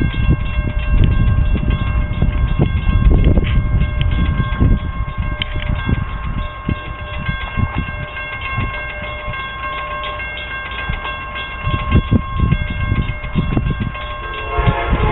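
Wind buffeting the microphone while an Amtrak train led by a P42 diesel locomotive approaches from a distance. About fourteen seconds in, the locomotive's horn starts to sound.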